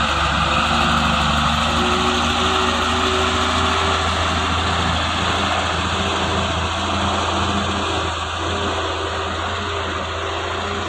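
Truck engine running steadily with a constant low drone.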